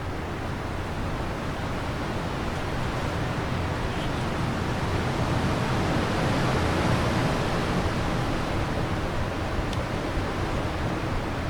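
Wind blowing steadily, swelling into a gust about halfway through and easing off again.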